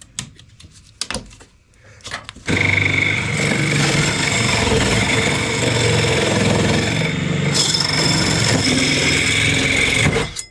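A power drill runs steadily for about eight seconds, re-drilling and widening a 3-inch hole through the cabin wall, and stops sharply near the end. A few light knocks come before it starts.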